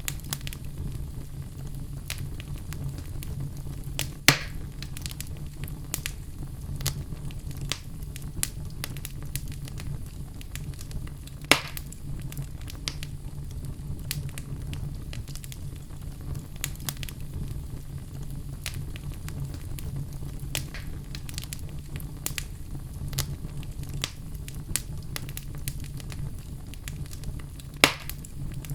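Wood fire in a fireplace crackling: a dense run of small crackles over a steady low rumble, with three louder sharp pops, about four seconds in, at about eleven seconds, and near the end.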